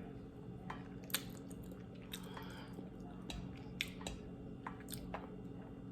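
A person chewing food close to the microphone, with scattered short, sharp wet clicks of the mouth.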